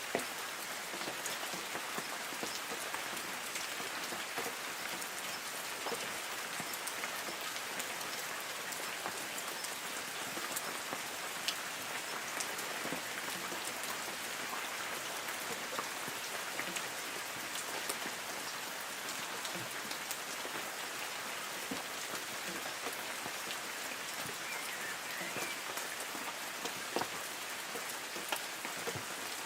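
Light rain falling on forest trees: a steady hiss of drops on leaves, with many scattered sharp drip ticks.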